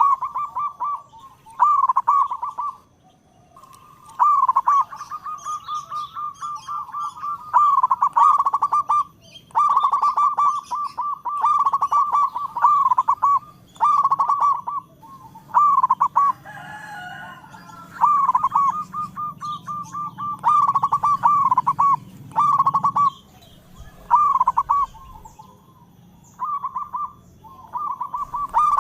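Zebra dove (perkutut) cooing: a rapid run of coos around one pitch, repeated in bursts of one to two seconds with short pauses between them, over and over.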